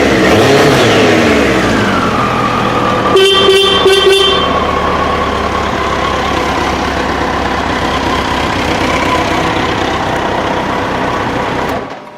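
2000 Triumph Trophy 1200's inline-four engine running, its revs falling back over the first couple of seconds. The bike's horn sounds briefly about three seconds in. The engine then runs steadily and cuts off near the end.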